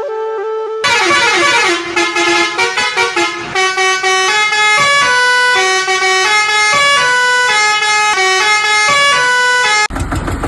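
A toy vehicle's electronic sound module playing a tune of buzzy, horn-like notes that step up and down in pitch. Near the end it gives way suddenly to a rough, noisy sound.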